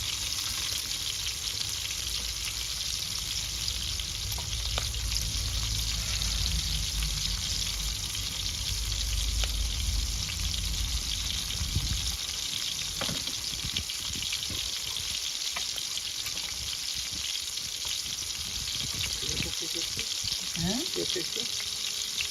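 Fish sizzling as it cooks over a wood fire, a steady frying hiss. A low rumble runs under it and stops about twelve seconds in.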